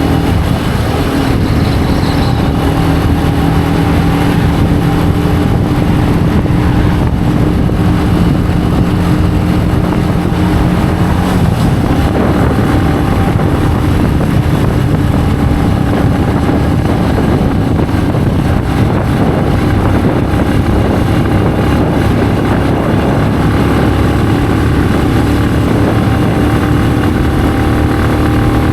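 Benelli BN125's single-cylinder 125cc engine running steadily under way, over a dense rushing of wind and road noise. Its note changes about a third of the way through, then holds steady again.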